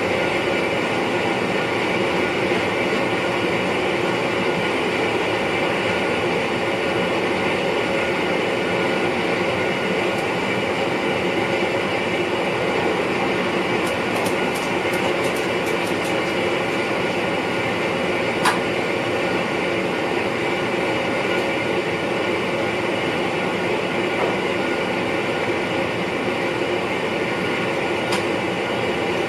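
NS VIRM double-deck electric train running at speed, heard inside the driver's cab as a steady running noise. A quick run of faint ticks comes about halfway through, then one sharp click a few seconds later.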